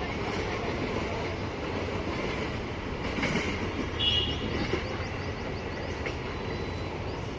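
An Indian Railways express's coaches rolling away over the rails: a steady rumble and rattle of wheels on track as the rear of the train recedes. A short high-pitched squeal comes about four seconds in.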